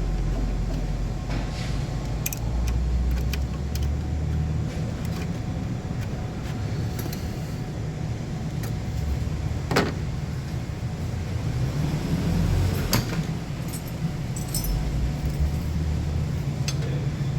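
Metal hand tools clinking and tapping against car parts, with scattered sharp clicks and a sharper knock about ten seconds in and again about three seconds later, over a steady low rumble.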